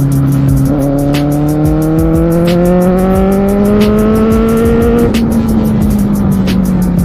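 Kawasaki Z750R's inline-four engine under way, its revs climbing steadily for about four seconds after a brief dip, then easing off as the throttle is rolled back.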